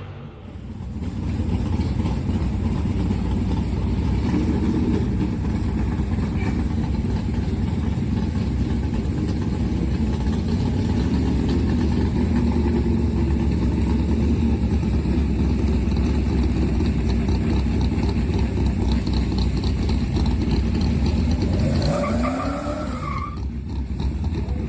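1978 Dodge D200 drag truck's 451 cubic-inch big-block Mopar V8 running hard in a long, steady stretch. Near the end there is a short rising tone and a brief drop in the sound before it picks up again.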